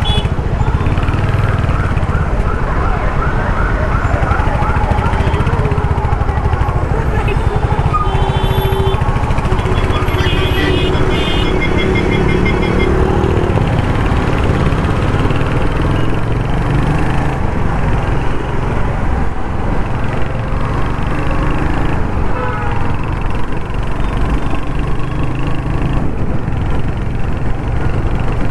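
Royal Enfield Hunter 350's 350cc single-cylinder engine running steadily while riding in city traffic, mixed with road and traffic noise. A wavering tone comes a few seconds in, and steady tones from surrounding traffic sound around ten seconds in.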